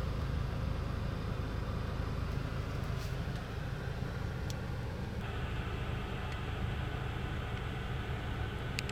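Audi S3's 2.0-litre turbocharged four-cylinder car running with a steady low drone under a hiss. The hiss brightens about five seconds in, and a couple of faint clicks come near the end.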